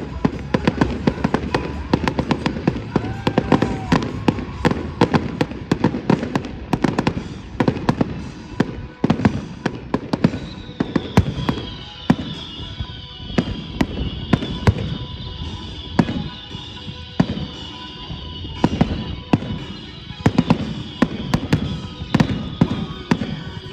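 Fireworks display: a rapid, continuous barrage of booms and sharp crackling bangs, several a second. About ten seconds in, a high wavering whistling tone joins and holds through the barrage.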